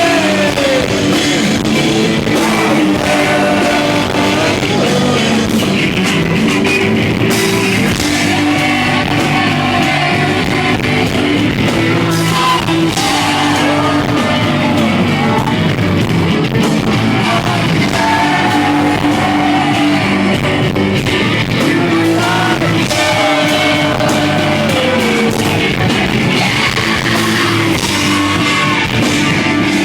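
A rock band playing live, with electric guitars, drums and a sung vocal line, loud and continuous, as heard in the room.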